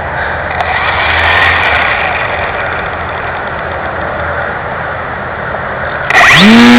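A steady rushing noise, then about six seconds in the RC P-51 Mustang's electric motor is blipped: a loud whine that rises and falls in pitch.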